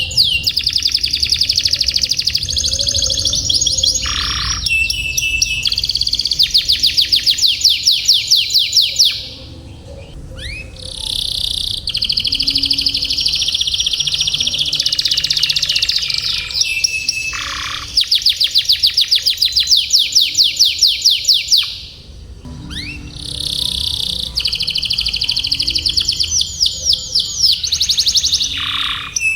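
Domestic canary singing long rolling trills: fast runs of repeated high notes, phrase after phrase, with two short pauses, about a third and three quarters of the way through.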